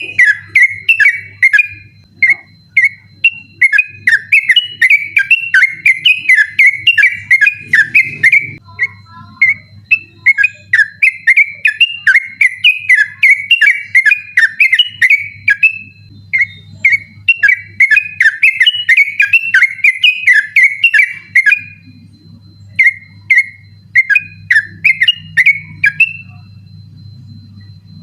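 Yellow-vented bulbul singing a fast, rapid-fire run of bubbly whistled phrases in long bursts with short breaks, falling silent near the end.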